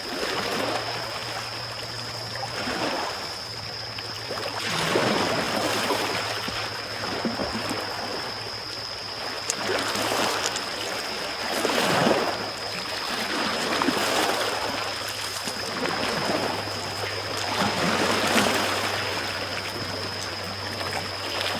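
Small sea waves lapping on the shore, swelling and falling back about every two seconds, with a few faint crackles from a wood campfire. A steady high-pitched tone and a low hum run underneath.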